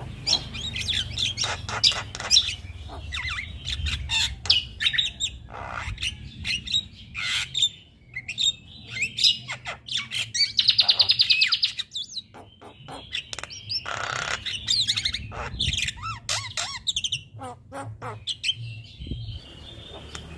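Male Javan myna (jalak kebo) in full song: a fast, varied run of squawks, whistles and clicks, with a loud buzzy trill about halfway through and a harsh rasping call soon after.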